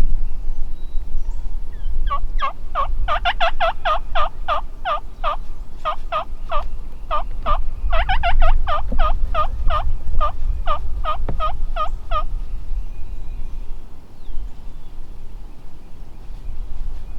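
A long run of turkey yelps at about three to four notes a second, in two series with a short break about five seconds in. A steady low rumble lies underneath.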